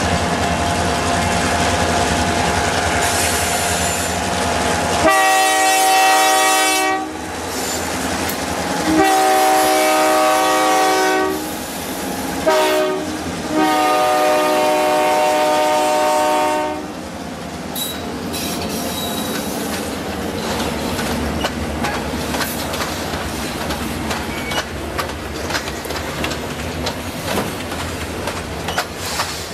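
Three EMD diesel road-switchers (a GP10, a GP9 and a GP38) run under power as they approach. Then the lead locomotive's air horn sounds two long blasts, one short and one long: the grade-crossing signal. After that, covered hopper cars roll past, their wheels clicking steadily over the rail joints.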